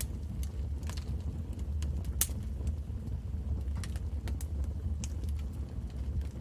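Wood fire burning in a fireplace: a steady low rumble of the flames with scattered sharp crackles and pops, the loudest about two seconds in.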